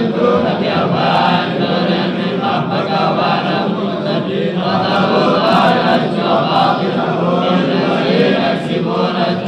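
Quran recitation: a continuous, melodic chanting of Arabic verses by male voice.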